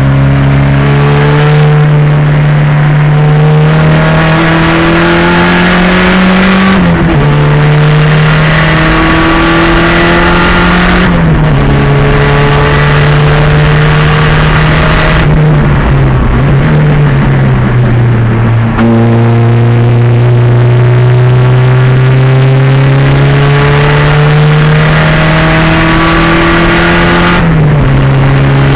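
1987 Pontiac Fiero's 2.0-litre turbocharged engine under race load, the revs climbing steadily and dropping sharply at each gear change, five times, with a slower dip and recovery in the middle.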